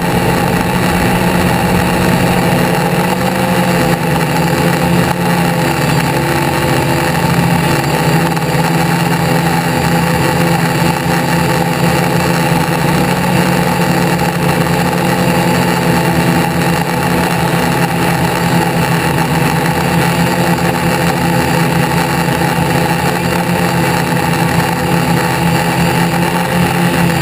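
Car engine idling steadily and loudly at an even pitch.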